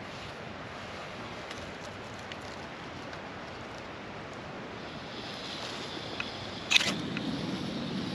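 Camp gas stove being lit: a gas hiss, a sharp igniter click about two-thirds of the way through, then the burner running with a steady low rush.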